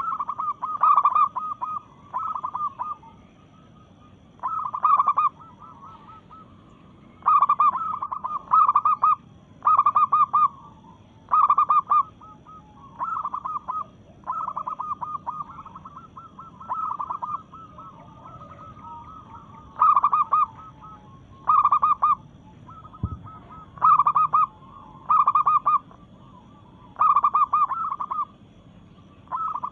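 Female zebra dove (perkutut) calling to a male: short, rapid bursts of staccato cooing notes, repeated every second or two.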